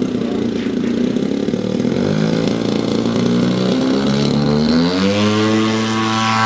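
RC model airplane's engine running, throttled up in steps and then opened up to full power with a sharp rise in pitch about five seconds in, holding steady for the maiden-flight takeoff run.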